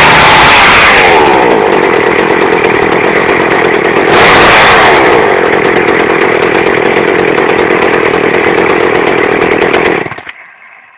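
Small two-stroke chainsaw engine, thought to be about 30cc, fitted to a bicycle, running with its idle set a little high. It is revved briefly twice, falling back each time, then runs on steadily before the sound dies away near the end.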